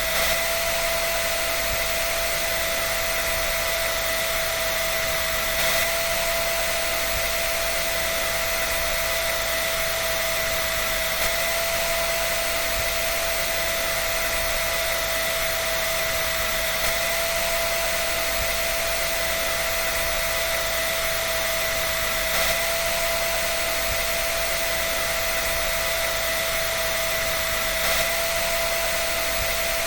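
Hair dryer running steadily: an even airy hiss with a constant motor whine, and a slight brief swell about every five and a half seconds.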